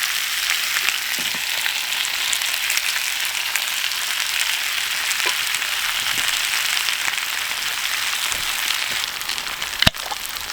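Onions, chorizo and pepperoni frying in a pan, a steady sizzle, with one sharp knock near the end.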